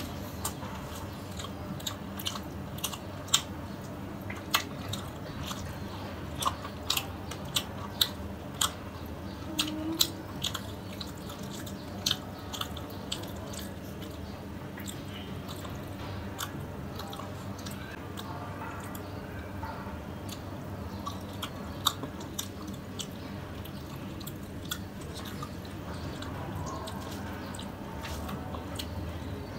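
Close-miked chewing of fish curry and rice, with many sharp wet mouth clicks and smacks, most frequent in the first half.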